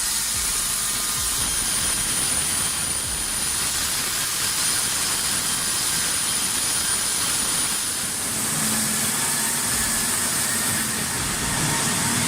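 Steady machine noise with a strong high hiss; a low engine hum joins about eight seconds in.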